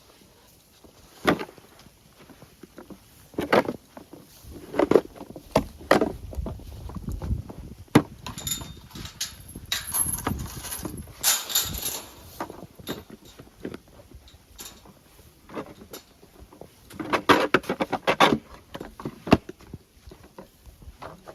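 Snow shovel scraping and scooping light, fluffy snow in irregular strokes, with a busier run of scraping near the middle and again near the end.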